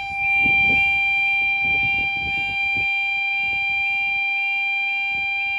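Level crossing audible warning alarm sounding, a steady two-pitched tone with a quick rising chirp repeating about two or three times a second, warning that the barriers are down for an approaching train. A low rumbling noise runs under it for the first few seconds and then fades.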